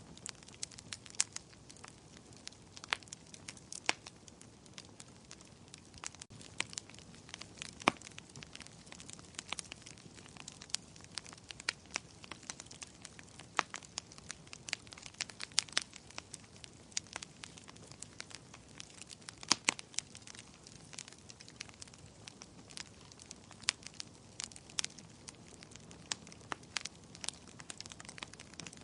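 Wood fire in a fireplace crackling, with many sharp irregular pops and snaps over a faint steady hiss of burning.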